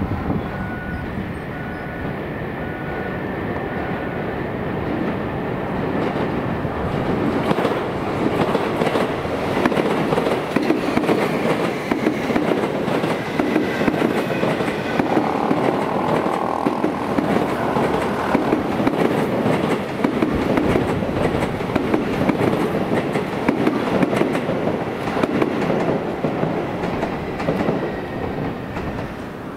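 Sotetsu 20000 series electric train running past, a rolling rumble with wheels clicking over the rail joints that builds up a few seconds in and carries on for over twenty seconds. A short tone repeats evenly at the start and stops a few seconds in.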